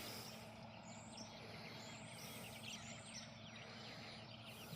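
Several birds chirping and calling faintly, many short quick notes overlapping, over a steady low hum.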